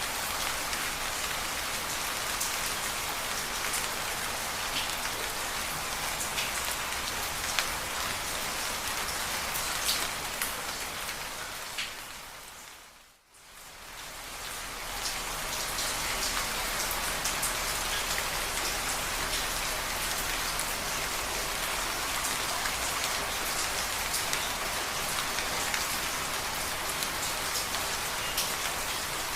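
Steady rain falling on surfaces, with individual drops tapping sharply through the hiss. About thirteen seconds in, the rain fades out briefly and fades back in.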